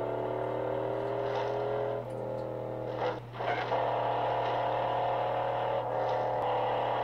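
Car engine revving hard at speed, its pitch gliding and shifting a couple of times, with a short drop-out about three seconds in. A steady low hum runs underneath.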